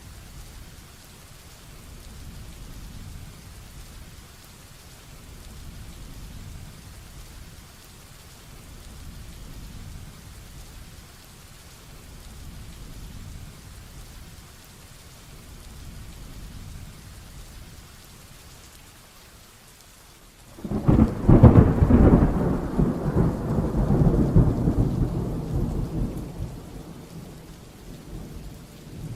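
Heavy rain falling steadily, then about twenty seconds in a sudden loud thunderclap that rolls on for several seconds and fades, with the rain still falling.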